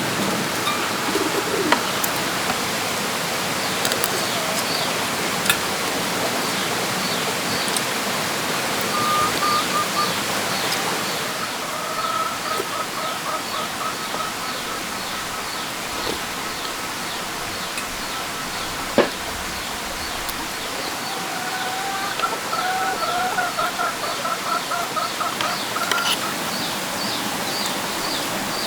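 Birds calling over a steady hiss: a long run of quick, high chirps repeating from a few seconds in, and longer wavering calls in the middle and again later. A single sharp click about two-thirds of the way through.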